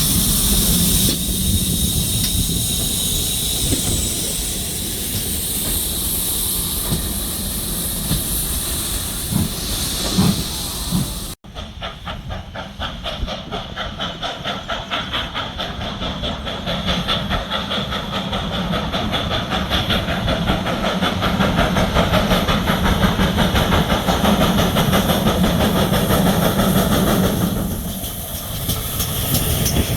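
Steam locomotive hissing steadily. After a cut about eleven seconds in, a train runs with a fast rhythmic beat that builds and then fades near the end.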